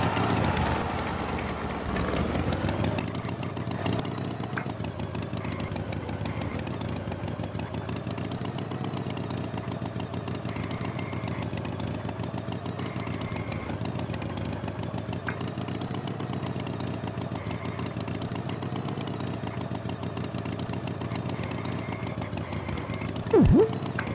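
Tractor engine running steadily with a rapid, even chug. Near the end comes a brief, loud sound that drops sharply in pitch.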